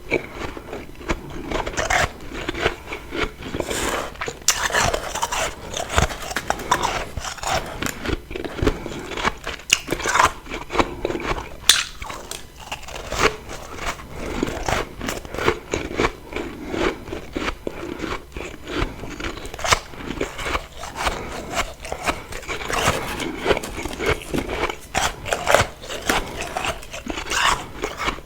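Close-miked biting and chewing of refrozen freezer frost: a rapid, irregular run of crunches and crackles.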